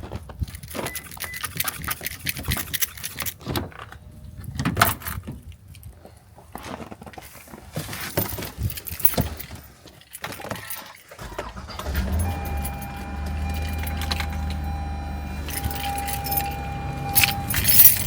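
Keys jangling and footsteps in deep snow, with irregular handling noises. About eleven seconds in, a car engine starts and settles into a steady idle, and a steady electronic warning tone sounds over it for several seconds.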